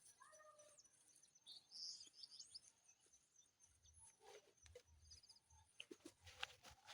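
Faint bird chirps and short calls over near-silent rural quiet, mostly in the first couple of seconds, with a few faint clicks later on.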